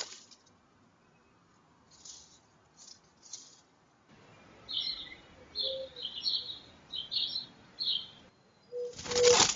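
A bird chirping in a quick series of short, high notes, followed near the end by a loud, brief rustling burst.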